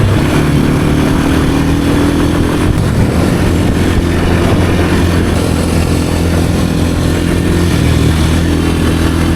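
Kawasaki KLX230R dirt bike's single-cylinder four-stroke engine running while riding, its note stepping between steady pitches a few times with throttle and gear changes.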